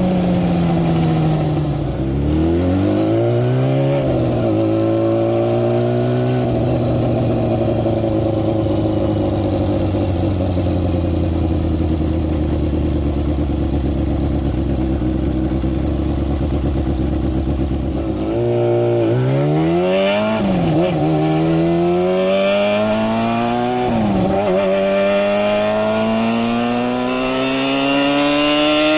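Kawasaki Balius 250's inline-four engine and exhaust under riding. At first the revs fall, climb and drop back. For about twelve seconds the engine holds a steady note, and then from about two-thirds of the way in it revs up hard through several gears, the pitch dropping sharply at each upshift.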